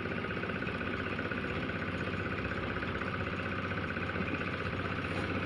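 An engine running steadily at an even idle, with a fast regular pulsing throughout.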